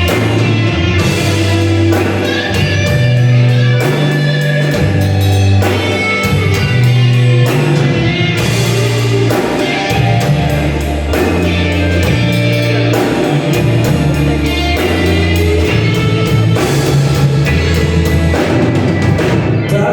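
A rock band playing live: drum kit keeping a steady beat under a bass line that moves between held notes, with guitar and other pitched parts above.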